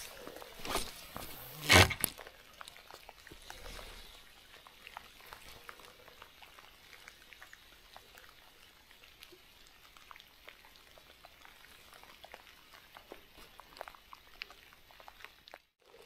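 Light rain falling, scattered drops ticking irregularly on leaves and gear. A louder rustle or knock comes a little under two seconds in.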